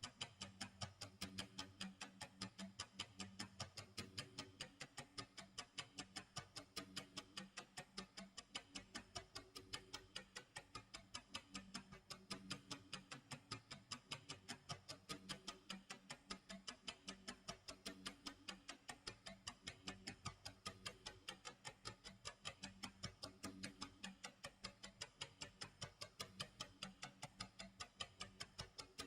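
Faint tick-tock clock sound effect from a countdown timer, ticking at a quick, even rate, with soft low tones underneath.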